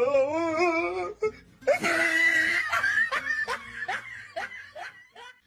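Person laughing hard: a wavering laugh, then a louder burst and a run of short falling "ha" pulses, about four a second, fading out near the end.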